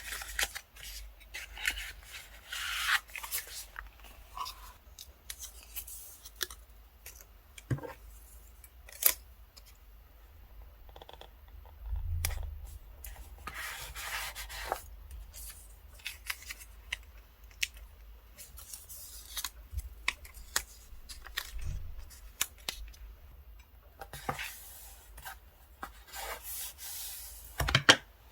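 Paper and stickers handled for journal decorating: irregular soft rubs and rustles with short taps, and a louder burst of rustling near the end.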